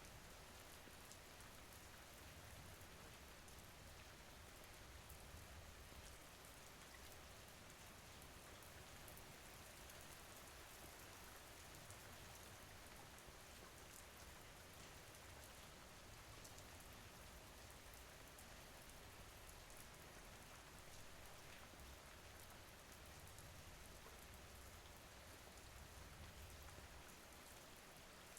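Faint steady rain falling: an even hiss with scattered drops ticking.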